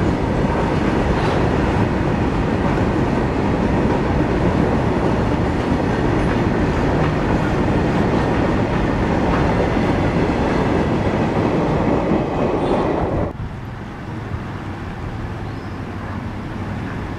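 Freight train of covered goods wagons running past close by: a loud, steady noise of wheels on rails with some clickety-clack. About thirteen seconds in it cuts off abruptly, leaving a quieter steady background noise.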